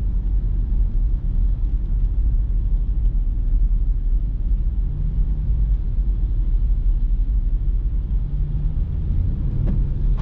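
Jeep Grand Cherokee SRT's HEMI V8 with a mid-muffler delete, cruising with a steady low exhaust rumble over road noise. The engine note swells a little about halfway through and again near the end.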